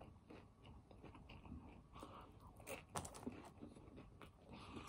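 Faint chewing with a few soft crunches about three seconds in: a person eating a pickle chip.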